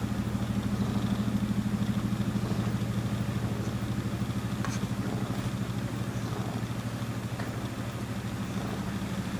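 A cat purring close to the microphone: a steady, fast-pulsing low drone.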